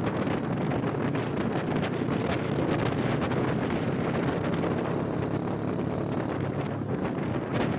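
Motorcycle engine running at a steady road speed under heavy wind noise on the microphone.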